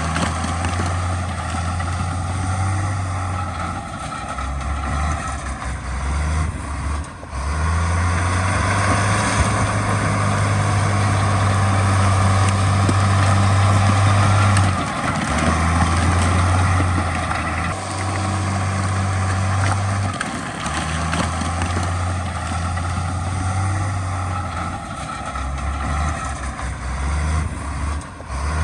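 Heavy diesel earthmoving machinery running. A deep engine drone steps up and down every few seconds over a dense, steady mechanical noise.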